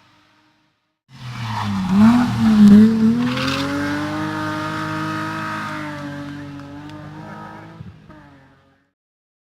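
Hill-climb race car engine at hard throttle, starting abruptly about a second in; the revs dip and rise quickly for a couple of seconds, then climb steadily as the car pulls away and fades out.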